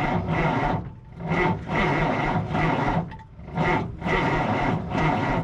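The starter of a 1962 Kenworth W900A cranking the engine slowly without it firing: a rough, rasping turn-over that rises and sags in surges about a second apart. It does not roll over fast enough to start; the battery cables run hot from the heavy current draw, and the owner suspects a dry starter.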